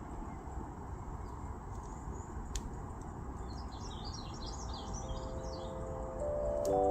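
Outdoor ambience with a steady low rumble of background noise. A small bird chirps a quick run of short notes about halfway through. Soft bell-like mallet music fades in near the end.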